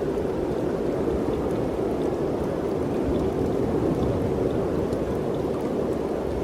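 Wind in the mountains, an even, unbroken rushing with no distinct gusts.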